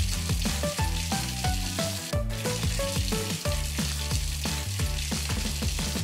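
Light background music, short plucked-sounding notes over a stepped bass line, under a steady hiss. The hiss breaks off briefly about two seconds in.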